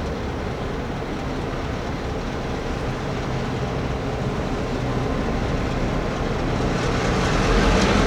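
Excursion train running past with a steady low rumble that grows gradually louder as it comes closer, with more rail and wheel noise near the end.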